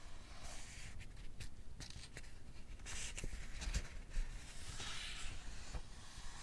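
Pages of a paperback book being turned close to the microphone: a few soft papery swishes with small clicks of paper between them.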